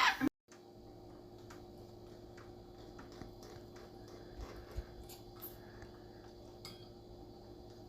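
A cockatoo's loud screech cuts off abruptly in the first moment. Then faint room tone with a steady low hum and scattered light clicks.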